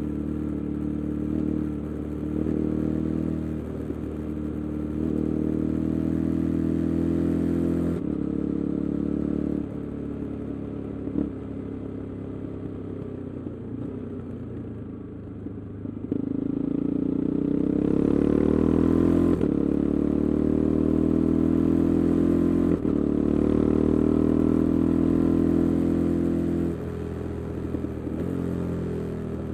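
KTM 390 Adventure's single-cylinder engine running through a resonator-less Arrow aftermarket exhaust while riding. It runs quieter and lower for several seconds, then climbs in pitch about halfway through, breaks off sharply and picks up again, holds a louder steady note, and eases off near the end.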